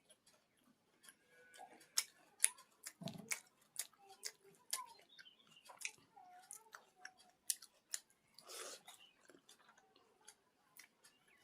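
Close-up eating sounds: chewing with frequent sharp, wet mouth clicks and lip smacks while eating pakhala (water-soaked rice) with fried sides. There is a soft low thud about three seconds in and a longer breathy rush about eight and a half seconds in.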